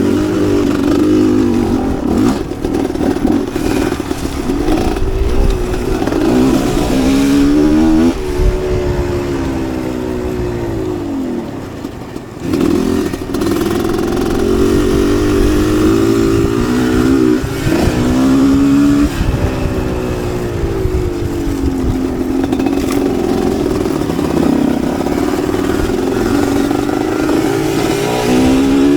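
Two-stroke motocross bike engine ridden hard, its pitch climbing and dropping again and again as the throttle is opened and closed, with some rattle from the bike.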